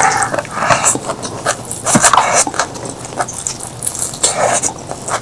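Close-miked eating: chewing and biting sounds coming in short, uneven bursts with brief pauses between them.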